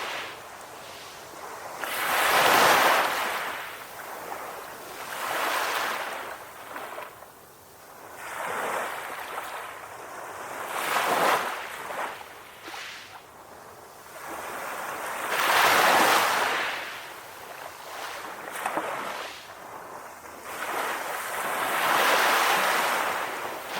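Calm ocean waves breaking and washing up the shore, each surge swelling to a hiss and falling back, about six times in a row.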